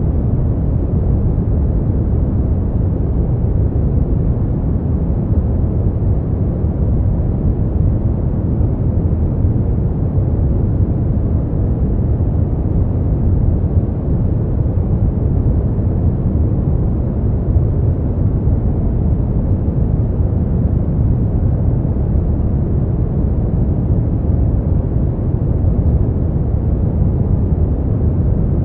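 Steady, unchanging noise for sleep, billed as white noise but deep-sounding, with most of its weight in the low end and almost nothing high.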